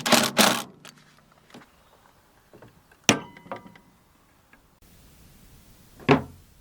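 Workshop handling noises: a few quick scrapes or rustles at the start, a sharp metallic clink that rings briefly about three seconds in, some small ticks, and one knock near the end.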